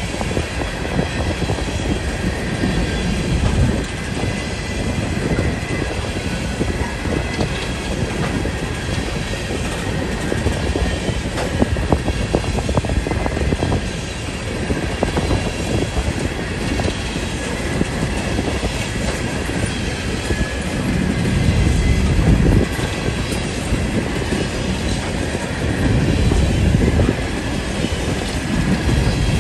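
Freight train of open-top hopper cars rolling past at steady speed: a continuous rumble of steel wheels on the rails, with rapid clicks and clacks as the trucks cross rail joints.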